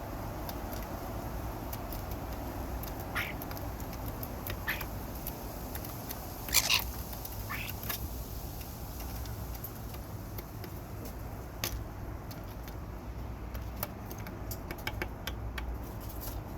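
Birds calling: a handful of short, harsh calls, the loudest about six and a half seconds in, then scattered sharp clicks, over a steady low rumble.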